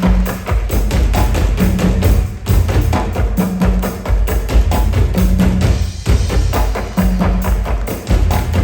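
Loud percussion-driven music from a live stage show: dense, rapid clacking hits over a steady beat, with a low bass note repeating about every two seconds.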